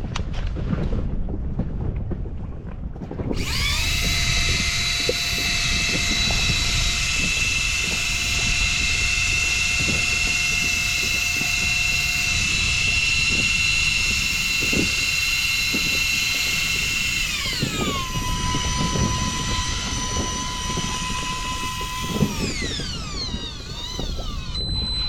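A small electric motor whining at a steady high pitch, which drops lower in a step about two thirds of the way through, then glides down and winds to a stop near the end, with a short high tone just after. Wind and water noise lie under it.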